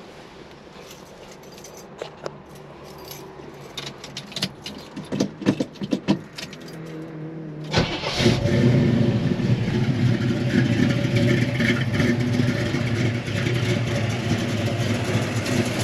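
Small clicks and rattles for several seconds, then a Chevrolet 350 small-block V8 with a Holley carburetor and a mild cam fires up about eight seconds in and keeps running steadily.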